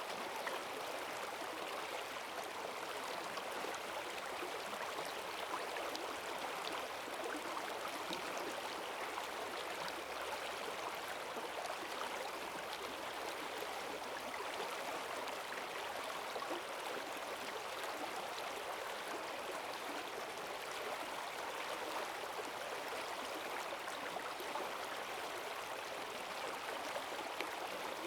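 Forest stream running fast and full after heavy rain: steady rushing and gurgling of strong currents.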